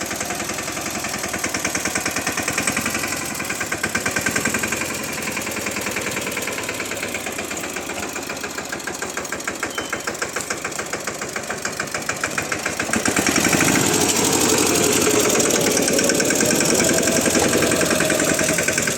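Swaraj tractor's diesel engine running with a steady, rapid firing beat, growing louder about thirteen seconds in.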